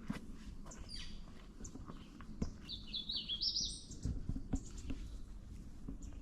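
A songbird sings a short run of high notes, climbing in pitch, about two and a half seconds in, over the scattered thuds and rustle of hikers' footsteps on the trail.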